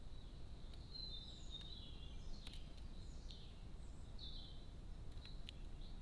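Faint, high bird chirps, a few short phrases in the first two thirds, over a steady low hiss, with a few sharp ticks.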